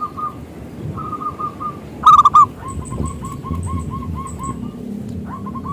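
Zebra dove (perkutut) cooing: rapid runs of short, soft coos, with a louder burst of notes about two seconds in. Faint high chirps from another small bird sound in the middle.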